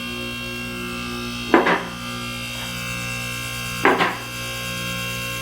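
Two knocks about two seconds apart, each a quick double strike, like tools striking parts while the engine is being pulled, over a steady electrical hum.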